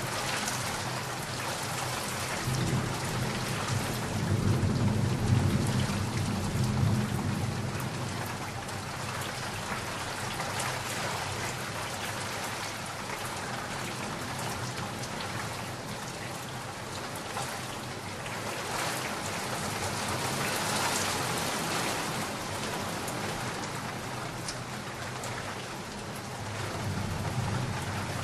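Steady heavy rain with a rolling rumble of thunder that builds from about two seconds in, peaks around five seconds and fades by about eight seconds; a fainter rumble swells again near the end.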